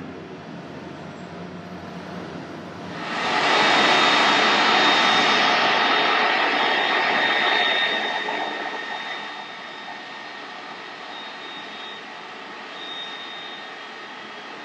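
Jet airliner's engines passing close: a rushing jet roar with a high whine in it comes in sharply about three seconds in, stays loud for about five seconds, then fades away.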